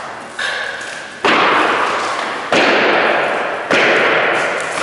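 Nail gun firing four times into plywood subfloor sheets, about one shot a second. Each sharp bang trails off over about a second.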